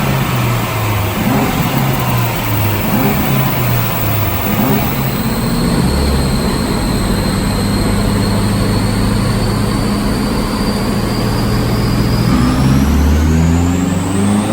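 Turbocharged Honda K20 four-cylinder engine in a Mitsubishi Colt CZT, loud: the revs step up and down for the first few seconds, then hold steady with a high whine above, and near the end the revs and the whine climb sharply together.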